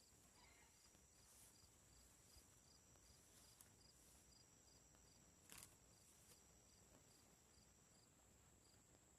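Near silence outdoors with faint insects: a steady high-pitched buzz and a regular faint chirp a little over twice a second. One brief faint click about five and a half seconds in.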